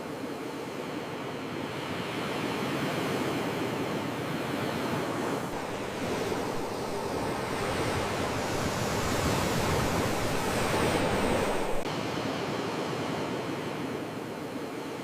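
Sea waves washing onto a shore, a continuous rushing surf that swells louder past the middle and drops away suddenly a few seconds before the end.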